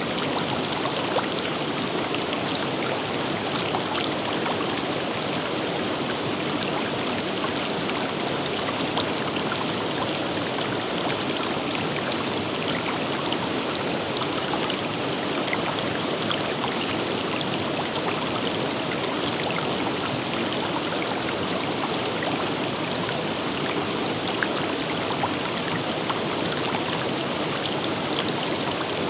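A river running steadily over rocks, an unbroken rush of water with fine splashing and trickling.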